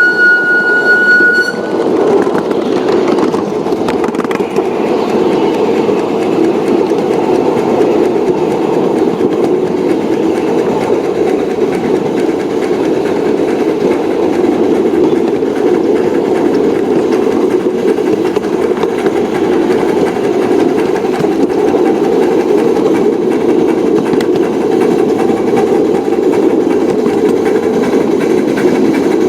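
Train running with a steady rumble. A single steady horn or whistle tone sounds at the start and cuts off about a second and a half in.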